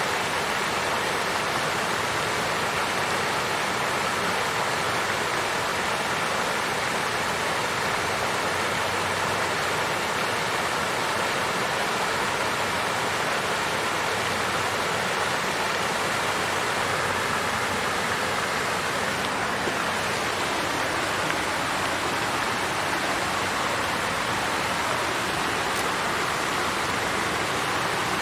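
Water fountain flowing and splashing steadily, an even rushing hiss with no change in level.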